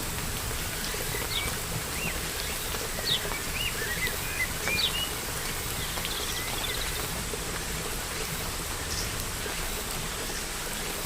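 Steady rain falling, with small birds chirping over it: a cluster of short up-and-down chirps in the first half, then a brief trill.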